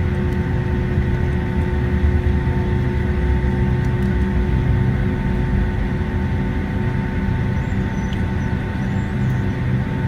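Boeing 757-200 at taxi power, heard from the cabin: a steady low jet-engine rumble with several steady whining tones over it.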